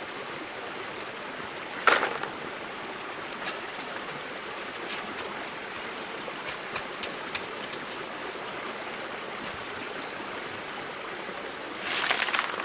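Creek water running steadily over rocks in flood, with a sharp knock about two seconds in and a short burst of clattering noise near the end.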